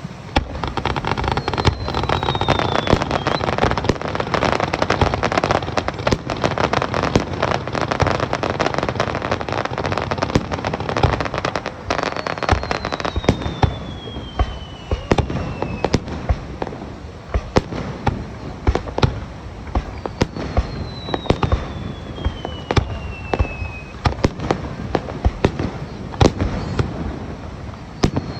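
Aerial fireworks display: a dense, continuous run of shell bursts and crackling bangs. A falling whistle cuts through it four times, about a second in, around the middle, about two-thirds through and at the very end.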